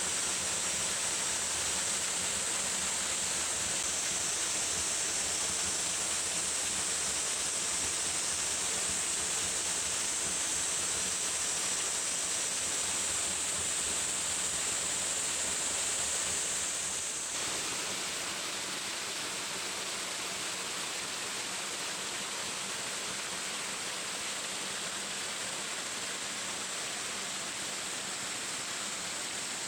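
Water falling and splashing steadily at a small shrine waterfall. Just over halfway through, the sound changes suddenly and becomes slightly quieter.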